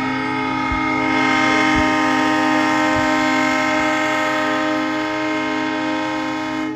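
Diesel locomotive's multi-chime air horn sounding one long, steady chord that cuts off suddenly near the end. It is the final long blast of the long-long-short-long grade-crossing signal, sounded by an EMD F7 locomotive.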